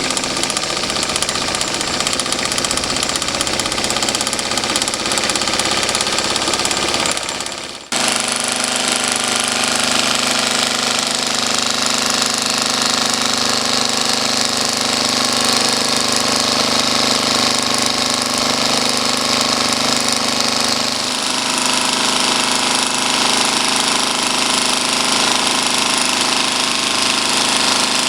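Homemade V-twin steam engine running steadily with a loud hiss. It dies down about seven to eight seconds in, then picks up again at once and keeps running.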